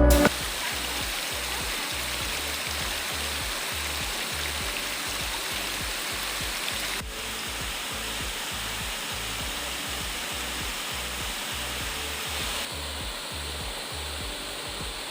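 Waterfall, a steady rush of falling water whose tone shifts slightly at two cuts, about seven and thirteen seconds in.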